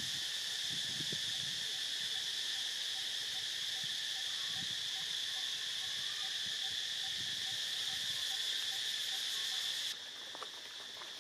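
Steady, high-pitched chorus of insects with a faint repeated note about three times a second underneath. The sound drops suddenly to a quieter level about ten seconds in.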